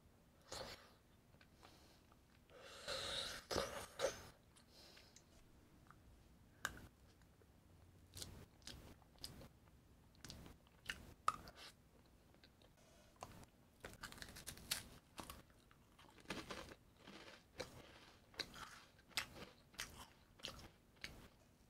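A person biting and chewing food close to the microphone, with crunchy bites and scattered short mouth clicks. The loudest stretch is a burst of biting about three seconds in.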